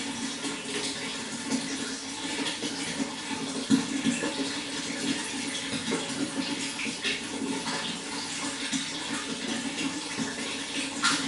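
Water flowing steadily, with small brief splashes now and then.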